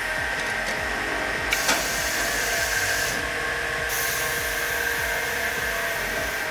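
CTD N90 double miter saw running its twin 16-inch blades on twin 3-horsepower motors: a steady high whine with a hiss that comes and goes. A couple of sharp clicks come about a second and a half in.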